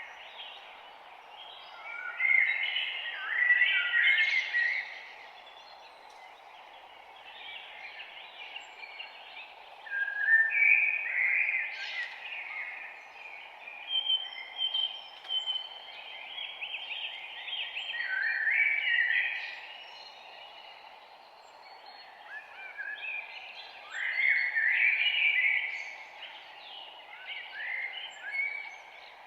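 Songbirds singing in bursts of quick, warbling phrases over a steady soft hiss of forest background noise, with the loudest runs of song about two, ten, eighteen and twenty-four seconds in.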